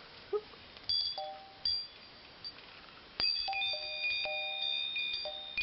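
Small metal chimes on a Christmas decoration tinkling. A few separate dings come first, then from about three seconds in a steady run of repeated ringing notes.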